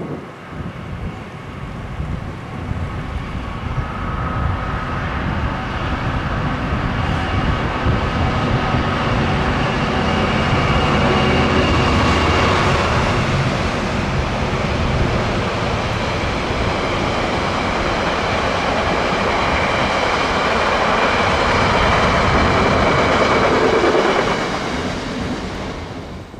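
Diesel-hauled freight train passing close by. The sound builds over the first ten seconds or so, holds steady for a long stretch, and falls away sharply just before the end.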